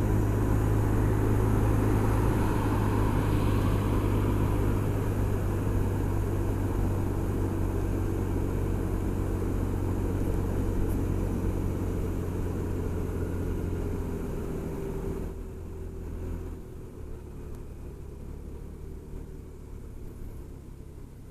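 Honda SH 300i scooter's single-cylinder engine running at a steady, unchanging pitch with some background road noise, slowly getting quieter. About fifteen seconds in the sound drops sharply to a much quieter low rumble.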